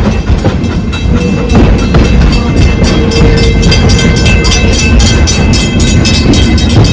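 Passenger train running along the track, heard from aboard a rail car: a steady low rumble, joined about two seconds in by a fast, even ticking.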